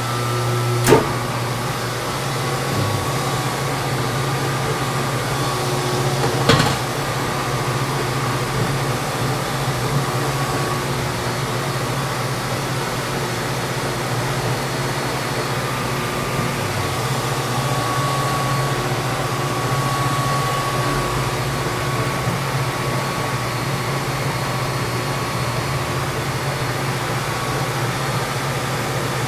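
Lathe running steadily while its tool takes a skim cut on a fiberglass tube. Two sharp clicks, about a second in and again about six and a half seconds in.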